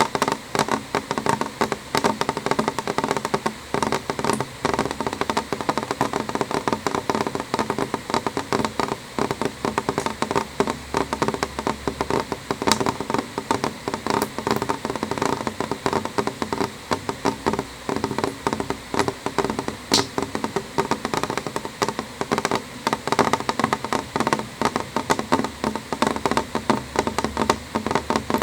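Rain on a window pane: a dense, uneven patter of drops tapping on the glass, holding steady.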